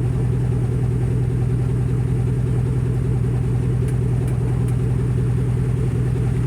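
2011 Chevrolet Tahoe's 5.3-litre V8 idling steadily through an open exhaust, the muffler and resonator cut off but the factory catalytic converters still in place.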